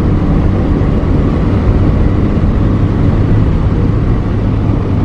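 Interior sound of a 1979 Volkswagen Scirocco Mk1 GLI on the move: its 110 hp 1.6-litre fuel-injected four-cylinder from the Golf Mk1 GTI runs at a steady, even pitch while cruising, heard inside the cabin together with road and wind noise.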